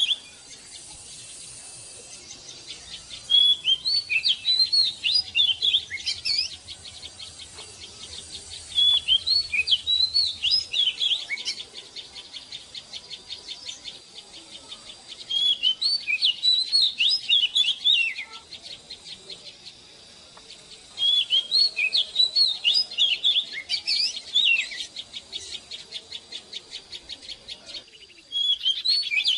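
Oriental magpie-robin singing in phrases of quick, varied whistled notes, each phrase lasting two to three seconds and recurring about every six seconds. A fast, even ticking runs underneath.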